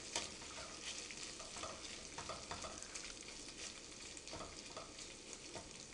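Thin-sliced beef bistek sizzling in a frying pan as a spoon stirs it, with scattered scrapes and clicks of the spoon against the pan. The meat is browned and cooked through, its sauce cooked down and nearly dry.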